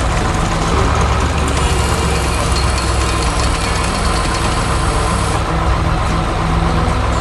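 Heavy diesel engine of construction machinery running steadily with a deep, pulsing rumble. A thin high whine lies over it from about a second and a half in and cuts off suddenly about five seconds in.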